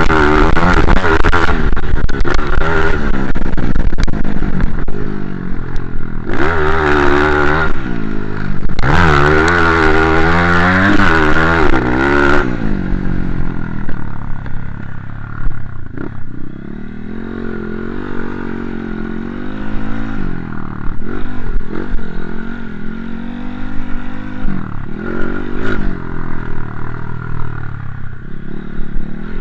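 Motocross bike engine revving up and down through the gears, loud for the first twelve seconds or so, then dropping away to a quieter engine sound that keeps rising and falling.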